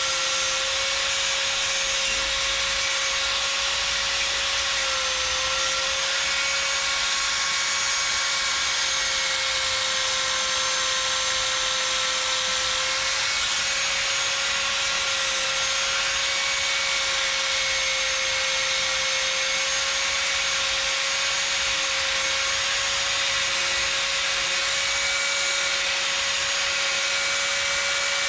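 A small motor running steadily, a constant whine over an even hiss, with no change in speed or loudness.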